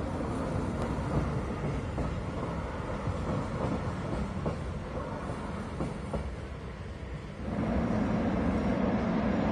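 A train of vintage passenger coaches rolling past, the wheels giving a steady rolling noise with occasional clacks over rail joints. About seven seconds in, the sound cuts to a louder, steady low rumble.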